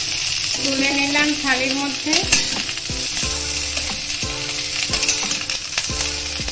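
Cauliflower florets sizzling as they fry in hot oil in a kadai, with a metal spatula scraping and knocking against the pan as they are stirred and lifted out. Background music plays underneath.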